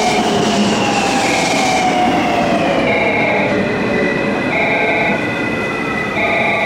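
Electric train pulling into the station, its motor whine falling steadily in pitch as it slows to a stop. A short electronic warning tone repeats about every second and a half.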